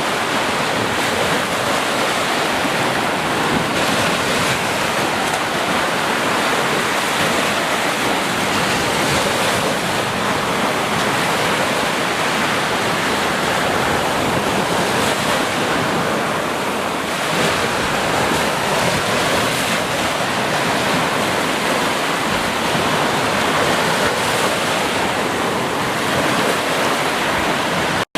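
Ocean surf washing steadily onto a beach, a continuous dense rush of water with little rise and fall. It cuts out for an instant near the end.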